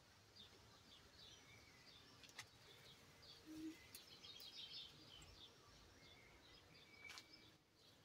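Faint songbirds chirping, with short high calls repeating throughout and a quick trill about halfway through. A couple of faint clicks stand out.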